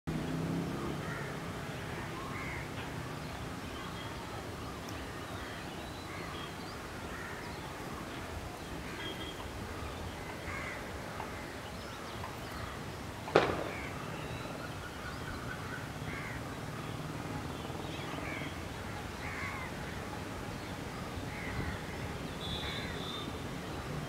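Many birds calling on and off over steady low background noise. A single sharp knock about halfway through is the loudest sound.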